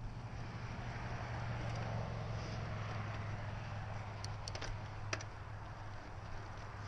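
Mountain bike rolling along a dirt trail: a steady rumble of tyres and wind on the microphone, with a few sharp clicks and rattles from the bike between about four and five seconds in.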